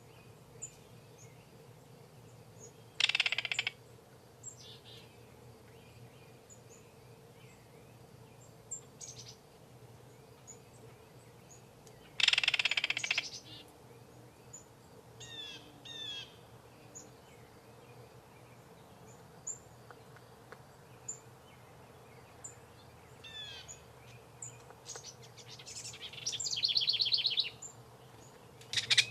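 Kingfisher giving loud, rasping calls: single calls about ten seconds apart, then a longer rattling series near the end. Fainter chirps and whistles of other birds come in between.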